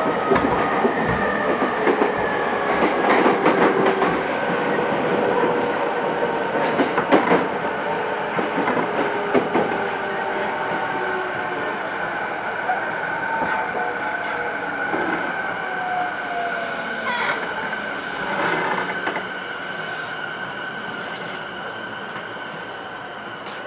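JR E217 series electric train running, its motor whine falling slowly in pitch as it slows, with rail-joint clacks and a gradual drop in loudness toward the end.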